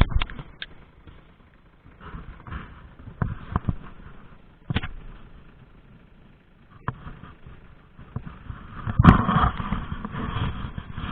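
Irregular knocks and rattling clatter from a small moped ridden over rough off-road ground, coming in scattered bursts with a loud, dense cluster about nine seconds in.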